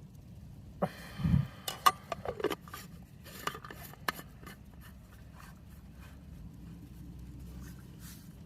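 Containers and utensils being handled: a quick run of clicks, knocks and a short scrape in the first half, then only a faint steady hum.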